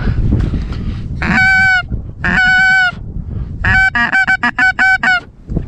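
Goose honking: two longer calls, then a quick run of about seven short honks, over low wind rumble on the microphone.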